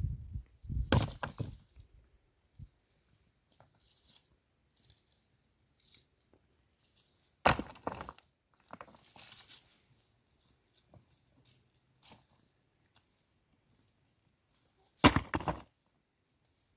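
Three loud sharp knocks, roughly seven seconds apart, each followed by a brief rattle, with quieter clicks and scraping sounds in between.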